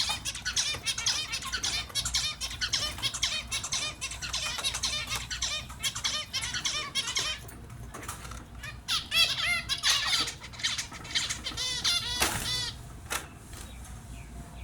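A group of small finches chirping and calling in rapid, overlapping notes. The calling is densest for the first seven seconds or so, then thins to scattered clusters of quick repeated calls.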